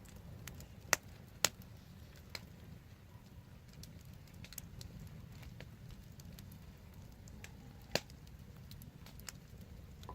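Wood fire crackling: scattered small snaps, with three sharp pops (about a second in, again half a second later, and near the end) over a steady low rumble.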